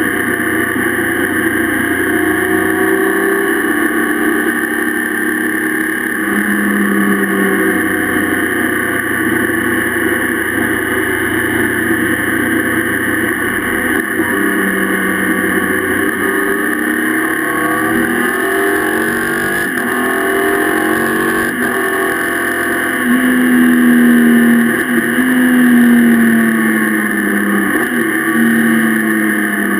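Motorcycle engine running at road speed with steady wind rush, heard from the bike itself. In the second half the engine note climbs several times as the rider accelerates, loudest about three-quarters of the way through.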